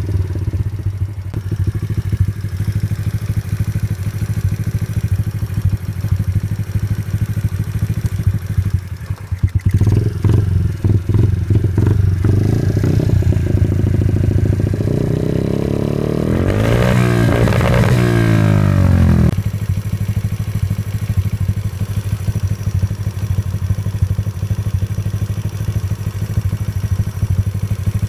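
Sky Team RC50F pit bike's 50cc single-cylinder four-stroke engine idling. About halfway through it is revved up for a few seconds, rising and then falling back to idle.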